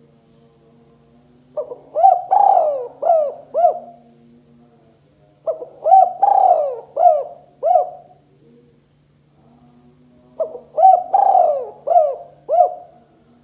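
Spotted dove (tekukur) cooing: three phrases of about five notes each, a couple of seconds apart. The calls sit over a faint steady hum and a thin high whine.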